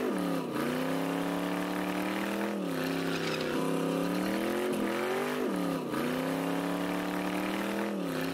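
LS V8 in a Chevrolet C10 pickup, through Flowmaster mufflers, revved hard during a burnout. The pitch climbs and then falls away sharply about five times as the rear tyre spins.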